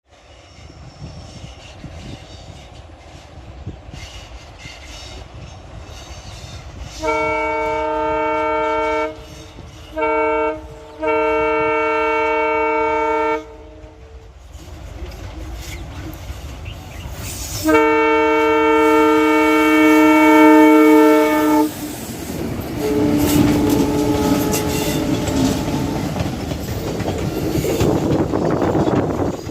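Indian Railways diesel locomotive's horn sounding four times: a blast, a short toot, another blast and then a long one about four seconds long. Afterwards the train's rumble and clickety-clack of wheels on rail joints grows louder as it comes close.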